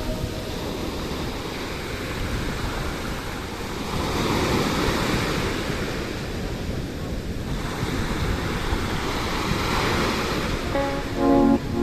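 Sea waves washing onto the shore with wind on the microphone, the surf swelling louder twice. A few notes of music come in near the end.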